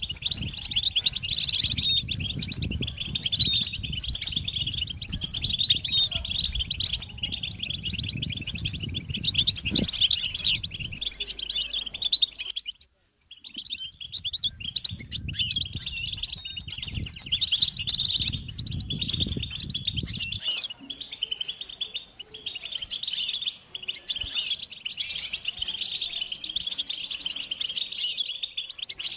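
European goldfinches chattering and singing: a dense, continuous run of high twittering phrases from several birds. The song drops out completely for about half a second around thirteen seconds in, and a low rumble sits underneath for roughly the first two-thirds.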